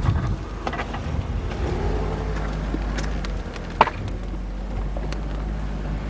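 Car engine running at a steady low idle, heard from inside the car, with a few light clicks and knocks, the sharpest nearly four seconds in.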